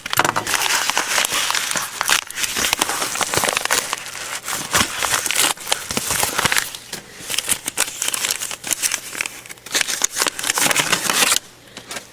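Packaging being crinkled and rustled by hand as a mailed package is unwrapped, a dense, continuous crackle that stops suddenly near the end.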